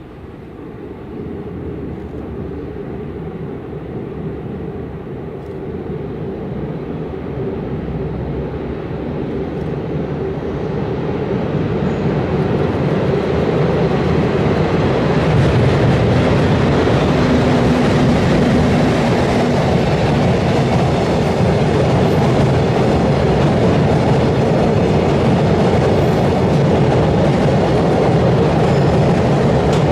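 Train approaching and crossing a railway bridge. Its rumble grows steadily louder for about fifteen seconds, then holds as a loud, steady wheel-and-rail roar with some clickety-clack as the cars pass over the bridge.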